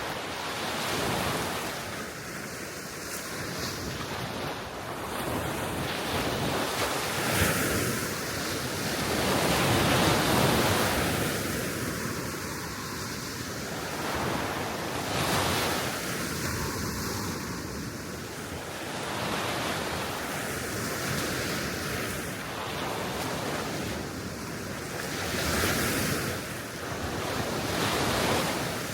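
Gentle sea waves washing onto the shore, swelling and easing every few seconds, with a few louder breaks. Wind is on the microphone.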